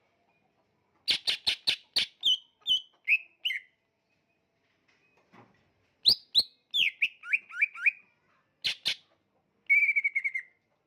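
Kalimantan green leafbird (cucak ijo) singing in bursts of sharp, rapid notes and falling slurs, with a pause between phrases and a fast trill near the end.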